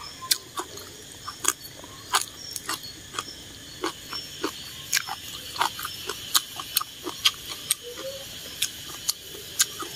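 Close-miked eating sounds: irregular wet chewing clicks and lip smacks as a glass-noodle and vegetable salad is eaten, over a steady high drone of insects.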